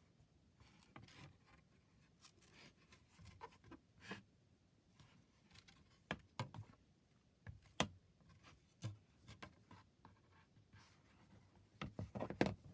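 Faint handling of a children's play-a-sound book: scattered rubs, rustles and light taps as it is turned over and its pages looked through, with a quick run of clicks and rustles near the end.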